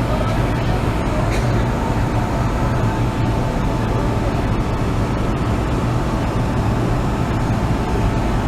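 MTR Kwun Tong Line M-Train heard from inside the car while running: a steady rumble of wheels on rail with a strong low hum and a faint, even whine.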